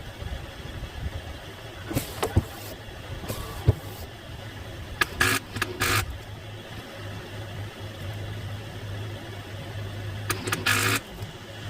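Failed attempts to start a 2007 Ford Transit on jumper cables with a flat battery: a few clicks, then two short bursts about five seconds apart, around five seconds in and near the end, without the engine catching; the battery is too weak to crank it. A steady low hum runs underneath.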